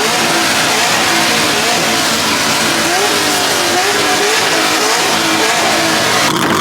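Car engine revving, its pitch rising and falling again and again, over a loud steady rush of engine and exhaust noise.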